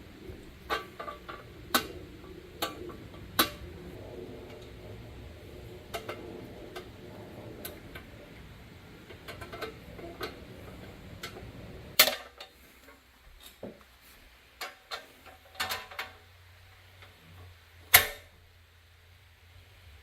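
Scattered sharp clicks and light taps of small hard parts being handled, about a dozen, two louder ones near the middle and near the end. A low background hum stops suddenly about twelve seconds in.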